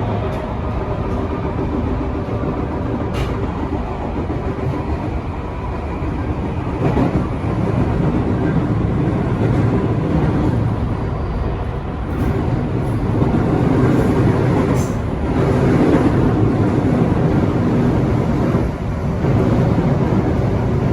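Electric passenger train running along the line, heard from inside the train: a steady rumble of wheels on rail with a faint motor whine early on and a couple of sharp clicks. The rumble grows louder about 7 s in.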